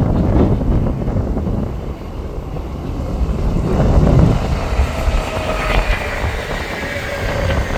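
Odakyu 5000 series electric train running through the station, its traction motors giving a faint whine that falls gently in pitch over the last few seconds. Strong wind buffets the microphone with a heavy low rumble.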